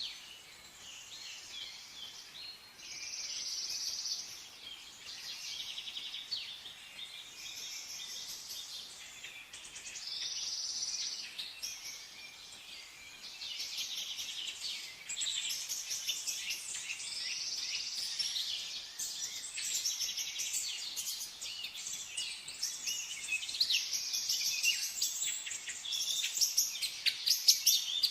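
Many songbirds chirping and singing at once, a dense chorus of overlapping high trills and chirps that grows louder near the end.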